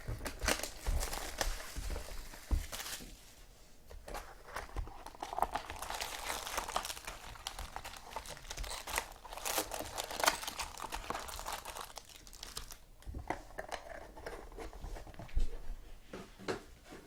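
Trading-card pack wrappers being torn open and crinkled by hand, in irregular rustling bursts with a few small clicks.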